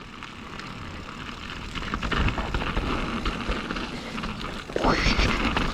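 Mountain bike rolling down a rough, rocky trail: tyres over rock and dirt with the chain and frame rattling and wind noise, getting louder about two seconds in, with a brief rising swish near the end.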